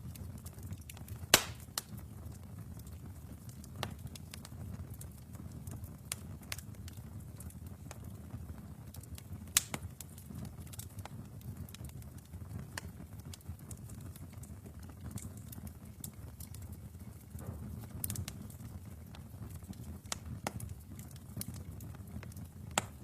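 Wood fire burning in a fireplace: a low steady rumble of flames with irregular crackles and sharp pops of the logs, a few of them much louder than the rest.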